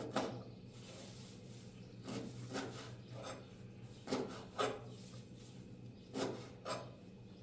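Repeated scraping or rubbing strokes in pairs about half a second apart, one pair every two seconds or so, over a steady low hum.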